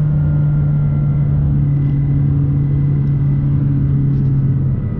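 McLaren 570S twin-turbo V8 droning steadily, heard inside the cabin while cruising at speed, with road and wind noise underneath. The engine pitch drops a little near the end.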